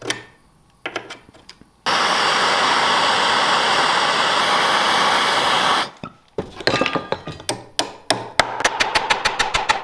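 Workshop hammer knocks, then a power tool running steadily for about four seconds, then more hammer blows turning into a fast, even run of taps about five a second near the end.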